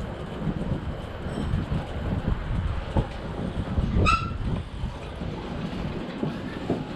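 Ride noise from an electric bike on the street: a steady low rumble with irregular knocks and rattles. A short, high beep sounds about four seconds in.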